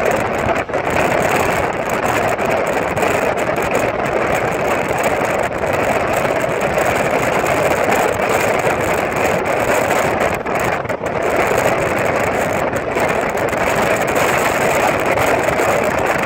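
Steady rush of wind buffeting the microphone, together with the travel noise of the moving vehicle it is filmed from, with a few brief dips.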